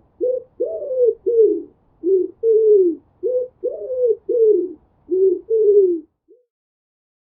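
Pigeon cooing: a run of about ten short, low coos in quick succession that stops about six seconds in.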